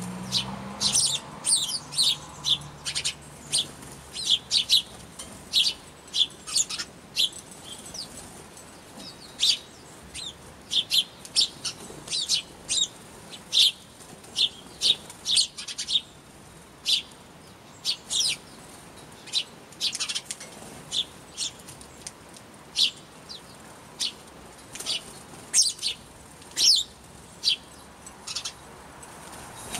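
Small birds chirping, a rapid, irregular run of short, sharp high-pitched calls, many of them quick downward notes.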